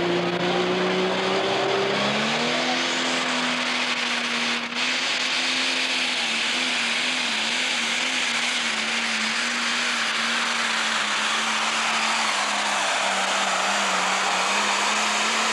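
Pro Stock pulling tractor's turbocharged diesel engine at full throttle on a pull down the track. Its pitch climbs about two seconds in and then holds high with a slight waver over a loud hiss, sagging a little near the end before cutting off abruptly.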